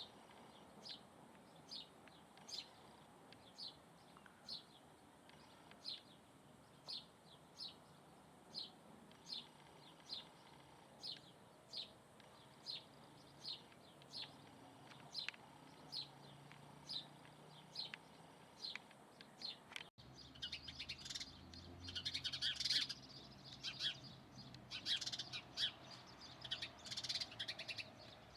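Birds calling: a single short, high call repeated steadily about once a second. About two-thirds of the way through, the sound cuts to a busier, louder run of rapid chirping.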